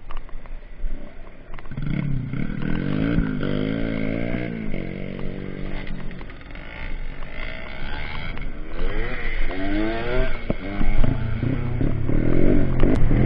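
Trail motorcycle engines revving up and down several times, with more than one bike running at once.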